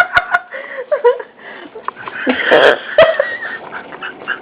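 Dogs licking and smacking their mouths as they eat sticky peanut butter: a run of quick wet tongue-and-lip clicks. About two and a half seconds in there is a short noisy rush of breath.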